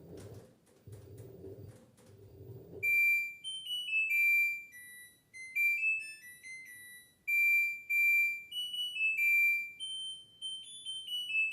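LG F10B8MD front-loading washing machine finishing its cycle. A low hum from the machine runs for about the first three seconds, then it plays its end-of-cycle tune: a melody of clear electronic beeps at different pitches.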